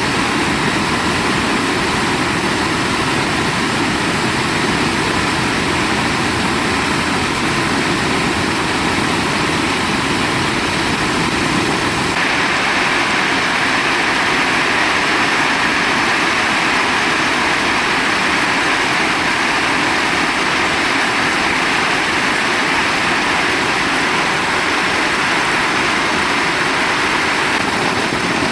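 Heavy rain pouring down steadily in a dense, unbroken hiss. About twelve seconds in the sound abruptly turns brighter and stays so.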